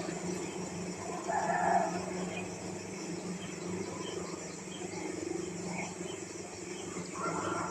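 A short animal call, about a second and a half in, over a steady low hum.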